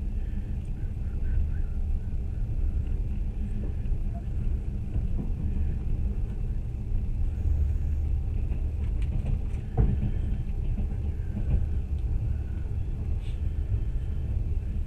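Steady low rumble of a train, with a single sharp knock about ten seconds in.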